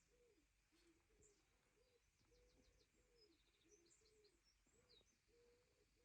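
Faint outdoor birdsong: a pigeon or dove cooing in repeated short low phrases, with small birds chirping and trilling high above it.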